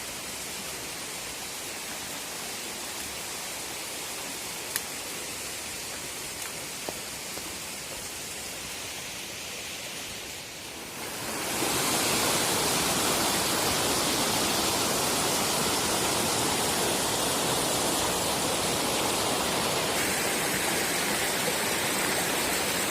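Steady rushing of a waterfall. It grows markedly louder about halfway through and then holds steady.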